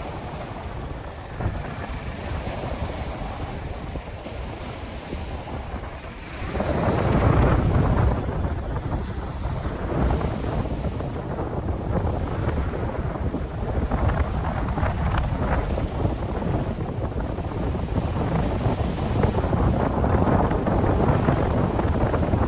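Cyclone gale buffeting the microphone over breaking surf. A strong gust sets in about six and a half seconds in, and the wind stays gusty and loud after that.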